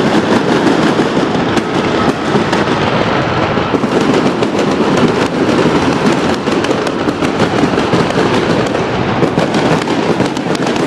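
Fireworks finale: a dense, continuous barrage of rapid bangs and crackling.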